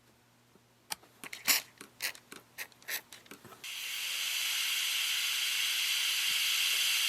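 A run of sharp clicks and knocks from handling a part, then a steady high hiss that starts about halfway through and keeps on for about four seconds.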